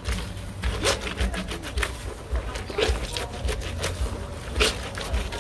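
Wet clothes being scrubbed by hand in a basin of soapy water: irregular swishes and splashes as the fabric is rubbed against itself.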